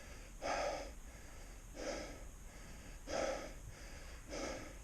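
A man breathing heavily, four audible breaths about a second and a quarter apart.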